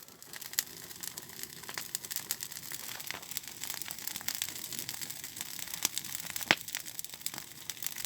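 Paper burning in a small bonfire: a steady crackling hiss with scattered sharp pops, the strongest pop about six and a half seconds in.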